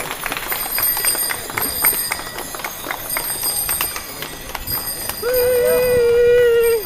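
A mass of bicycles setting off together: constant light clicking of pedals, cleats and gears, with bicycle bells ringing. About five seconds in, a steady held tone sounds for about a second and a half, louder than the rest.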